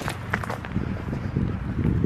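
Footsteps of people walking: irregular low thuds, with a couple of sharp clicks near the start.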